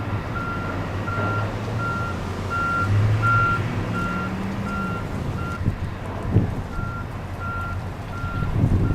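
Reversing alarm on construction machinery beeping at an even pace, about one beep every 0.7 s, breaking off for about a second and a half past the middle, over a diesel engine running. Wind gusts thump on the microphone near the end.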